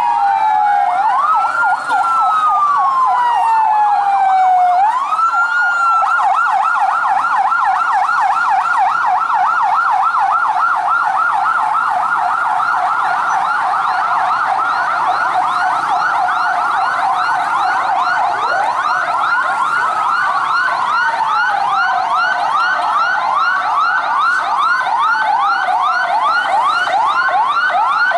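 Several fire-truck and rescue-vehicle sirens sounding at once. A fast yelp sweeps up and down about three times a second, with slower rising-and-falling wails over it near the start and again from about two-thirds of the way through.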